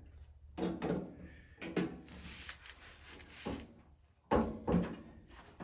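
Irregular scraping and knocking of parts being worked into place, in several short bursts, the loudest a bit over four seconds in.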